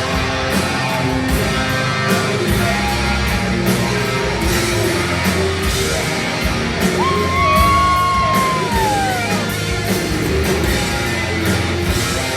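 Rock band playing with distorted electric guitars and drums. About seven seconds in, a voice holds one long high note that slides down at its end.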